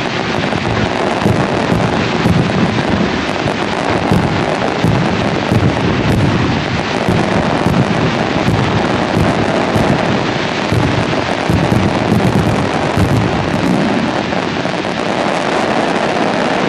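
Aerial fireworks barrage: a dense, unbroken run of shell bursts, loud throughout.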